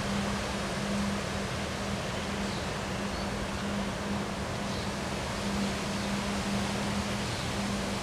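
Steady wind noise with a low, steady hum running under it, and a few faint, short high chirps.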